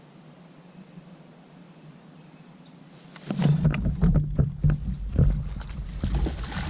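Close handling noises in a kayak: a quiet stretch, then from about three seconds in a run of irregular, heavy knocks and thumps against the hull as a freshly caught bass is handled and measured.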